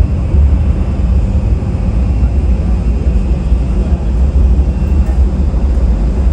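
Jet airliner engines, a loud steady low rumble with faint higher tones.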